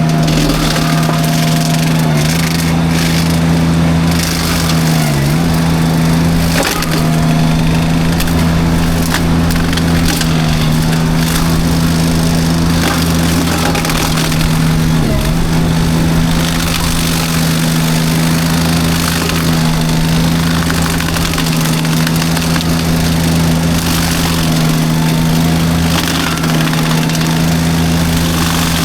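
Derette V1000 mini skid steer's forestry drum mulcher running at a steady, loud hum while it chews through brush, with constant wood crackling and splintering. The machine's pitch sags briefly a few times under load.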